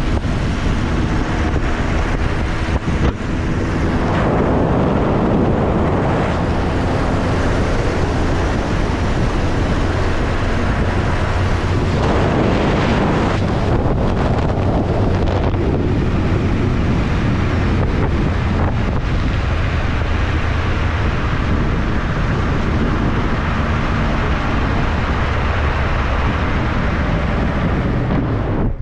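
Heavy wind rush and buffeting on the microphone over the steady drone of a 1275cc MG Midget's four-cylinder engine and road noise, heard from inside the open-top car at speed.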